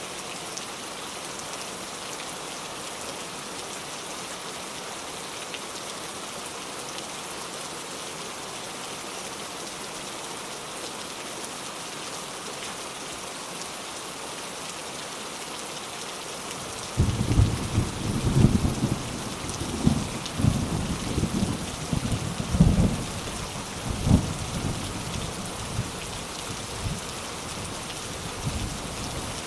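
Steady rain falling, with a rolling peal of thunder breaking in a little past halfway: several deep rumbling surges that then die away.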